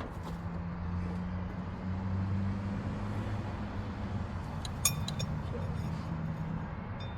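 A low, steady engine-like drone whose pitch wavers slightly, with a sharp metallic clink of a hand tool about five seconds in.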